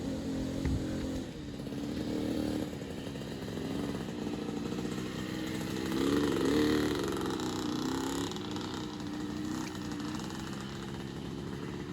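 65cc two-stroke youth dirt bike climbing a trail, its engine revving up and down; it rises in pitch and is loudest about six to seven seconds in.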